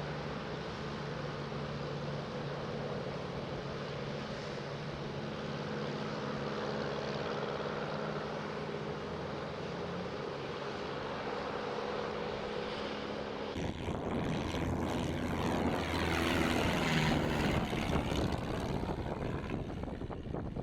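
Light propeller aircraft's piston engine running steadily. About two-thirds of the way through, the sound switches abruptly to a louder, noisier propeller sound.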